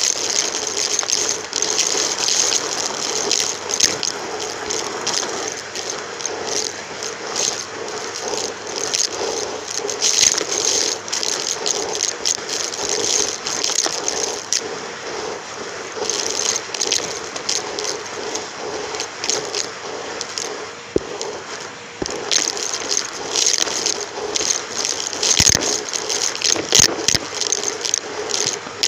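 Numatic James vacuum cleaner running, heard close up through a microphone fitted to it. A steady rush of air over a constant motor hum, with frequent crackles and rattles as debris is sucked through.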